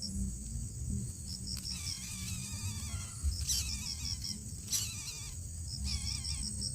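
Crickets chirping in short repeated trills over a steady high insect drone. From about a second and a half in, a wavering animal call rises and falls over them in several stretches.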